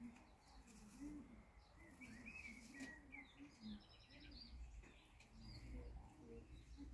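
Faint bird calls: a low cooing repeated every half second or so, with a few higher chirps in the middle.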